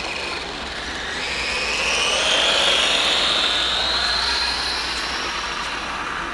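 A 1/10-scale HSP RC monster truck's motor whining as it speeds up. The pitch climbs from about a second in, is loudest a couple of seconds later, and then slowly fades.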